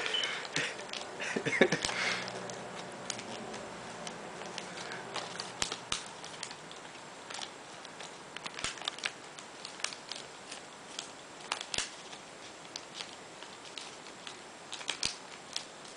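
A sheet of paper being folded and creased by hand, with irregular crinkles and small taps, busier in the first couple of seconds.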